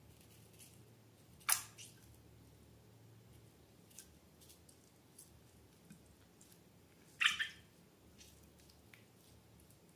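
Slime being handled: two short wet squelches, one about a second and a half in and a slightly longer one about three quarters of the way through, with faint sticky clicks in between.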